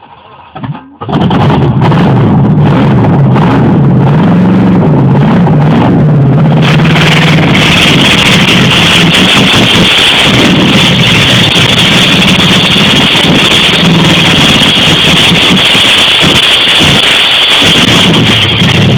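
V8 engine on a run stand, running loud and steady after coming in about a second in, its pitch rising and falling a little with the throttle during the first few seconds.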